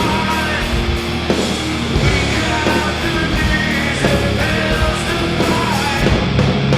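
A live metal band playing a song at full, loud volume as one dense wall of band sound.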